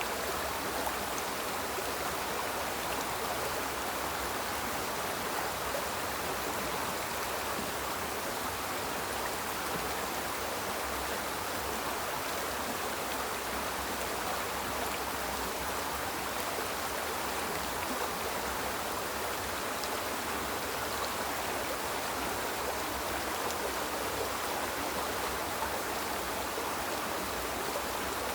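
Small river flowing steadily over rocks: a constant rushing of water.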